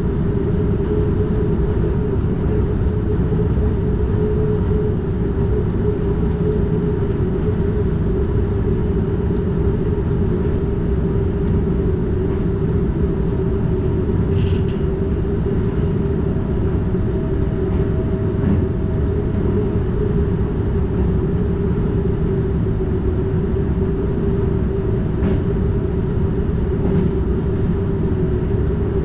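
NS DDZ double-deck Intercity train running at a steady speed, heard from the driver's cab: a continuous rumble of wheels on rail with a steady hum. There is one brief high-pitched sound about halfway through.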